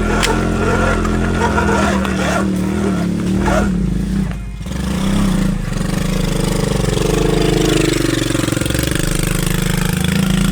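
Dirt bike engine pulling under load on a hill climb, easing off briefly about four seconds in, then revving up and down again.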